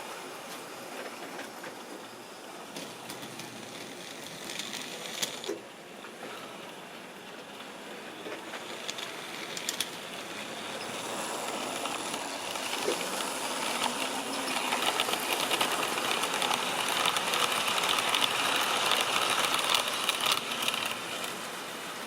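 Model railway train running on the track: the small electric motor whirrs while the wheels click over the rail joints. It grows steadily louder as it approaches, then drops away near the end as it passes.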